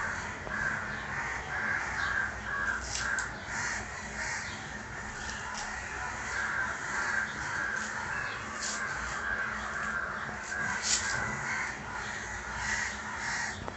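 Birds calling in the background: runs of short, repeated calls, the longest run in the first few seconds and more around the middle, with a few faint clicks.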